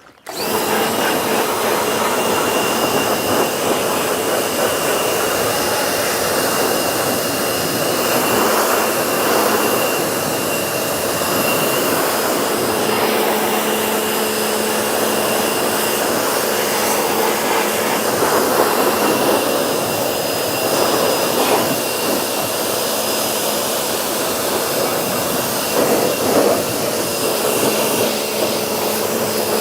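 Pressure washer running steadily, a motor whine under the hiss of the water jet spraying a car's bodywork.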